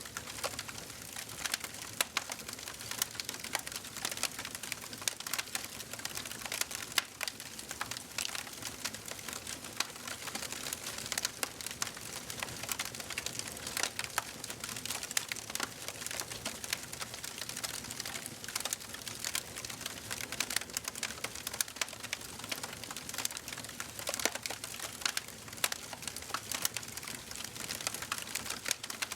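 Wood fire burning in a fireplace, crackling with many irregular sharp pops and snaps over a steady soft hiss of flames.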